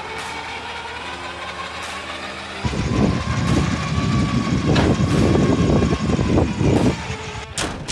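Truck on the road: a steady whine, joined about two and a half seconds in by loud engine and road rumble.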